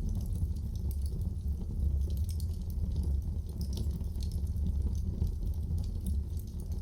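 Wood fire burning in a fireplace: a steady low rumble of flame with many small, irregular crackles and pops throughout.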